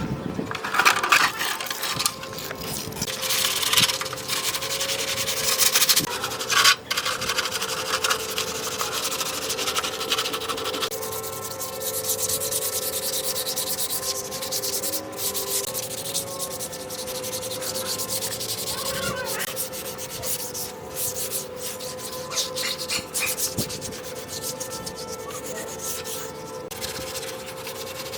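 Power sander running steadily against a surface: a constant motor hum under a gritty rubbing hiss that swells and eases as the tool is pressed and moved.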